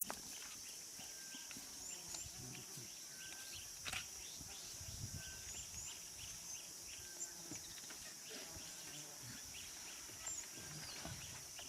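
Bush ambience: a steady high-pitched insect drone with many short bird chirps and a few quick upward-flicking whistles.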